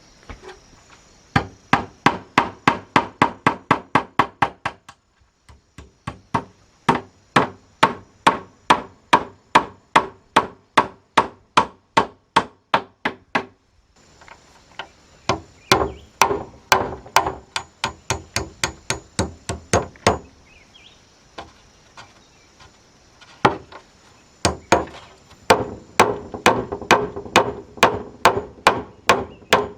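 A hammer driving nails into wood: rapid strikes, about four a second, each with a short ringing note, in several runs with short pauses between.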